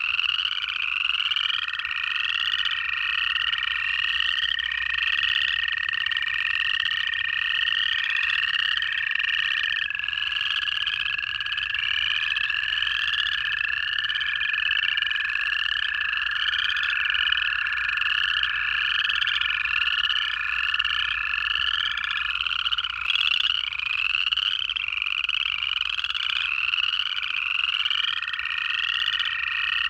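A dense chorus of upland chorus frogs, their short rising trills repeating without a break and overlapping. Long, steady, lower trills of American toads run over the chorus for several seconds each, overlapping at times.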